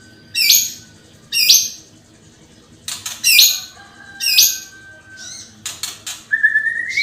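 White-rumped shama (murai batu) singing: four loud, harsh, buzzy notes about a second apart, some quick clicking notes, then a run of rising whistled notes near the end.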